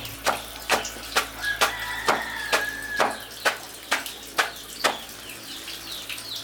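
A knife chopping banana plant on a board for animal feed, in steady strokes about two a second. A faint high-pitched call sounds for about a second and a half near the middle.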